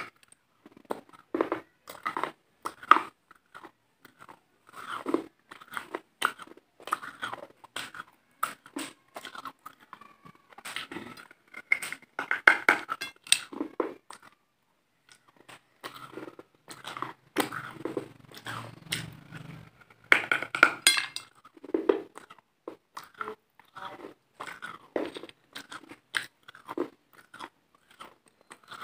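Close-miked crunching and chewing of a hard, brittle white food: irregular bursts of crisp cracking bites and chews, with a short pause about halfway through.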